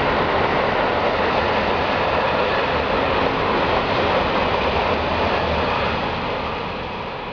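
Freight train of tank wagons rolling past, a steady noise of wheels on rails that fades away near the end.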